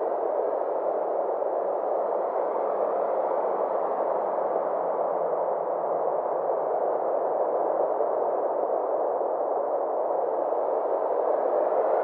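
Synthesized ambient space drone: a steady, muffled rushing noise centred in the midrange, with a slow sweeping shimmer in its upper part.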